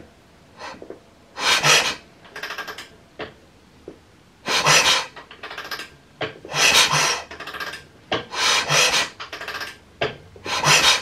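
Repeated rasping, scraping strokes, each about half a second long, coming roughly every one to two seconds, as a Norton Commando engine is turned over slowly with its valve gear exposed.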